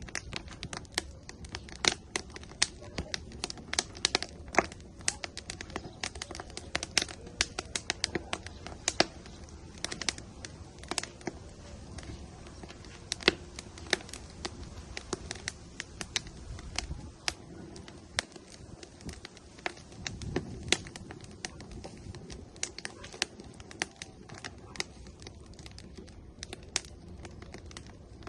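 Firewood burning in an outdoor grill, crackling with many irregular sharp snaps and pops over a soft steady rush of flame.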